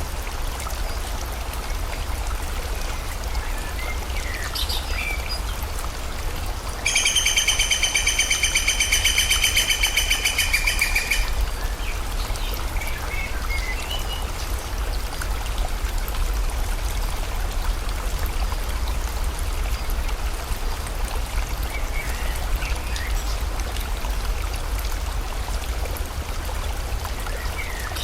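Water running steadily in a stream, with birds chirping now and then. About seven seconds in, a loud, rapid pulsing trill sounds for about four seconds, then stops.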